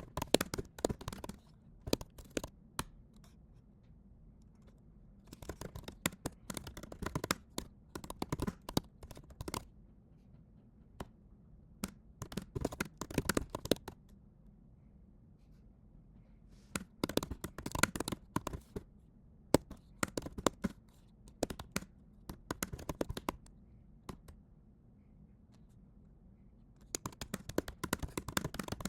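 Typing on a computer keyboard: bursts of rapid key clicks lasting a few seconds, broken by short pauses.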